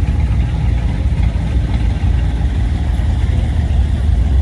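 Classic car's engine idling with a loud, steady, lumpy rumble.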